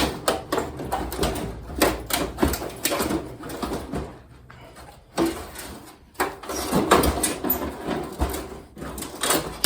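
Sheet-metal outer casing of a kerosene heater being worked loose and lifted off, with repeated clanks, knocks and scrapes of thin metal, a quieter pause about four seconds in, then more clattering.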